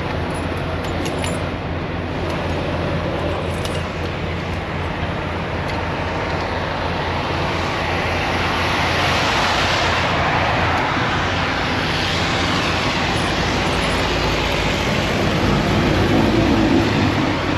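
Highway traffic passing on a wet road: a steady hiss of tyres on water over a low rumble, with one vehicle swelling past about halfway through and another approaching near the end.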